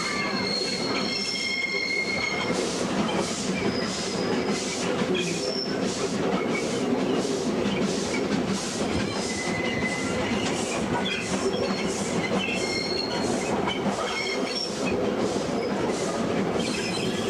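Two Western Australian W-class steam locomotives working a train uphill: a steady rhythm of exhaust beats, about three every two seconds. Short high wheel squeals come and go along with the running noise of the train.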